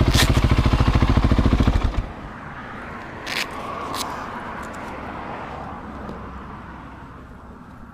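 Husqvarna 701 Supermoto single-cylinder engine idling with an even, rapid pulse, then shut off about two seconds in. Two short clicks follow a couple of seconds later.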